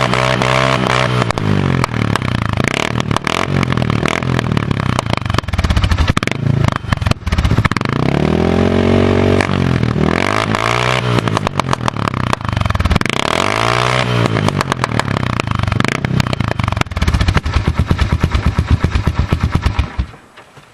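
1998 Honda 300 four-wheeler's single-cylinder four-stroke engine running through its exhaust, revved up and back down several times with a clattery note; the sound cuts off suddenly near the end.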